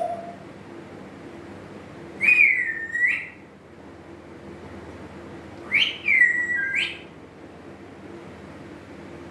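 African grey parrot giving two whistles about three and a half seconds apart, each dipping slightly in pitch and then rising at the end.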